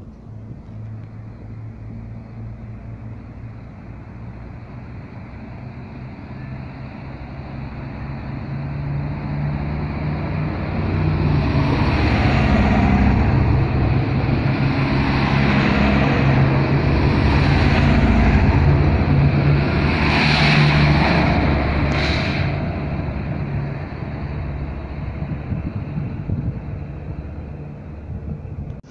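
A train running through the station, its engine humming low and steady. It grows louder to a peak lasting about ten seconds mid-way, with wheel and rail noise rising over it, then fades.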